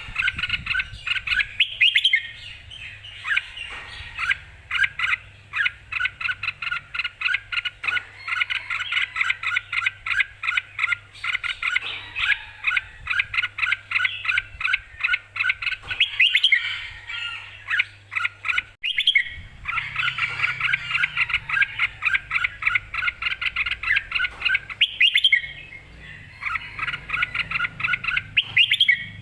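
Red-whiskered bulbul singing in long, fast runs of short chirping notes, pausing briefly twice.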